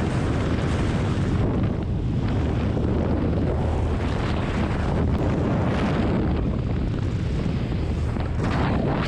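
Loud, steady rush of wind buffeting the microphone during a skydive, a continuous low roar.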